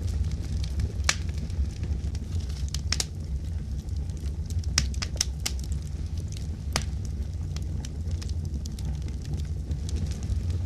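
Wood fire in a fireplace crackling: a steady low rumble of burning with irregular sharp pops and snaps scattered throughout.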